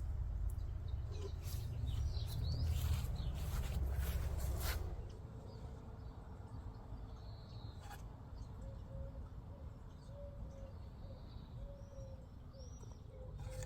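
Rustling and light knocks over a low rumble for the first five seconds or so, then birds chirping, with a run of short, low repeated notes in the second half.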